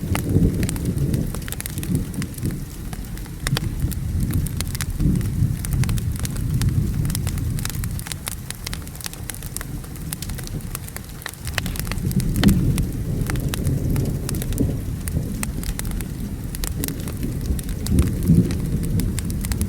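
Low rolling thunder rumbling over steady rain, with the sharp crackles and pops of a wood fire. The thunder swells near the start, eases off in the middle and rolls up again about twelve seconds in.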